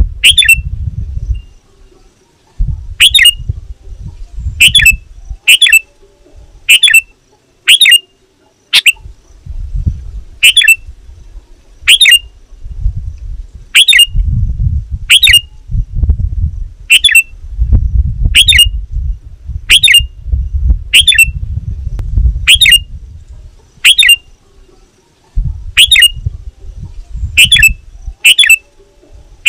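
Sooty-headed bulbul (kutilang) giving short, sharp, high calls over and over, about one a second and sometimes in quick pairs. A low rumble comes and goes underneath.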